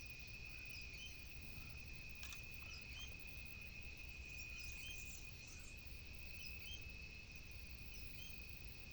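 Faint waterside ambience: a steady high-pitched insect drone holds throughout, with scattered short bird chirps over it and a low rumble of wind. There is one small click about two seconds in.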